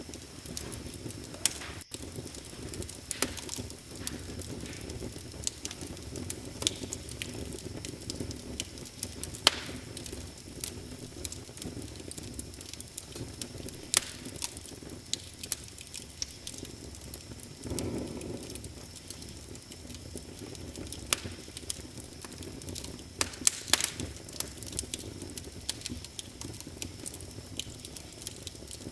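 Wood fire crackling in a fireplace: irregular sharp pops and snaps over a steady low rush of flame, which swells briefly a little past halfway.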